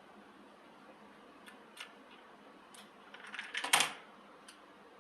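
A few separate sharp clicks, then a quick clatter of clicks ending in one loud knock near the four-second mark: small parts being handled and pulled off while a model vehicle is taken apart.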